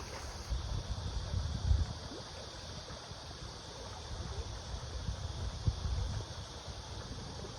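Valley stream water running as a steady rushing hiss, with irregular low rumbles and bumps over it.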